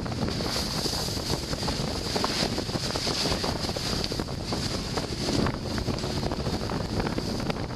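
Heavy wind buffeting the microphone aboard a Sprinto sailboat under way, with water rushing and crackling along the hull. The noise is steady, with no let-up.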